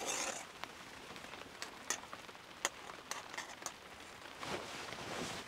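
Rain falling: a steady hiss with scattered sharp ticks of single drops striking nearby.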